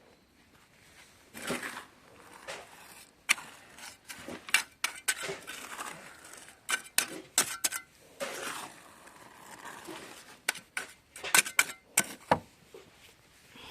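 Mason's trowel scraping and knocking as it works wet concrete, a quick irregular run of sharp clicks and short scrapes.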